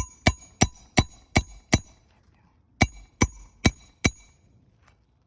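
Hammer driving roofing nails into asphalt shingles: six quick ringing blows about three a second, a short pause, then four more.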